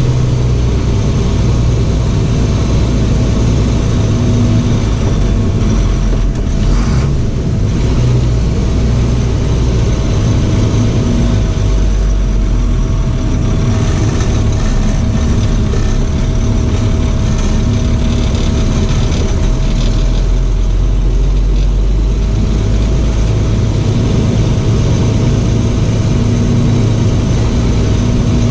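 Box truck's engine running as it drives, a steady rumble that shifts a little in pitch, with a thin steady whine alongside.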